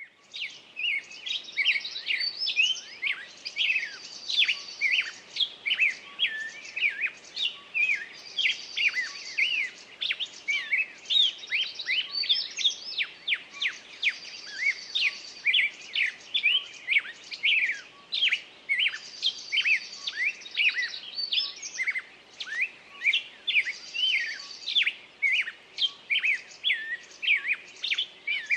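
A songbird singing a rapid run of sweeping chirps, each phrase ending in a buzzy trill and repeating about every five seconds.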